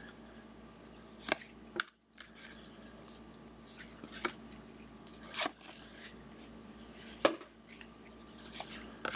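Trading cards being handled at a table: light rustling with about five sharp, separate clicks of cards or plastic card holders.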